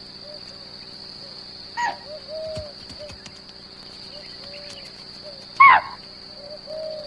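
Forest ambience with a steady high insect drone and soft, repeated short calls. Two sharp calls that fall in pitch come about two seconds in and again near the end, the second one loud: chital deer alarm calls, which signal a tiger close by.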